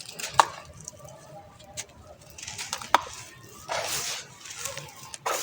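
Hard sand-cement shapes being broken up in water: sharp cracks about half a second in and again near three seconds, with gritty crumbling bursts in between and near the end.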